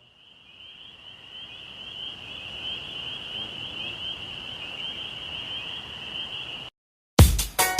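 Outdoor ambience: a steady, high-pitched trilling chorus of calling animals over a low rushing haze, fading in and then cutting off abruptly near the end, just before loud music with drum hits begins.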